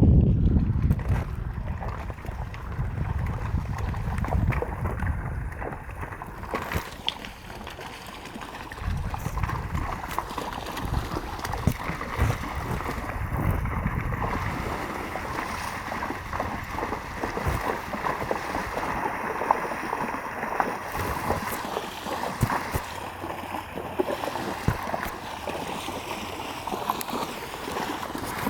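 River water flowing with repeated small splashes from wild horses wading in, and wind buffeting the microphone near the start.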